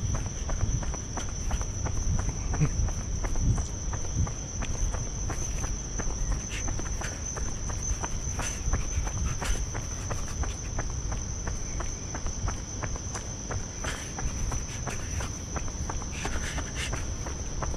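Insects, crickets by the sound of it, trilling in one high, unbroken tone, with many short clicks or crunches scattered through it over a low rumble.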